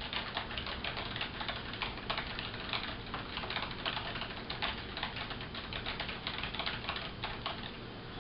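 Typing on a computer keyboard: a fast, irregular run of key clicks that goes on throughout.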